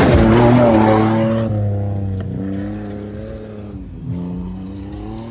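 Off-road 4x4's engine running hard, loud at first and then fading as the vehicle moves off, with a brief drop and rise in engine speed about four seconds in.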